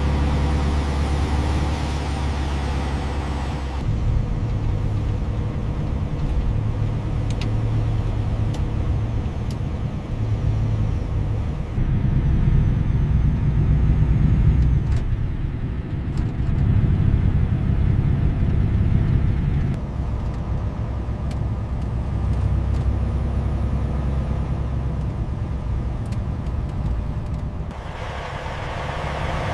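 Red Peterbilt semi truck's diesel engine running with a steady low rumble, its tone and level shifting several times, with a few faint clicks.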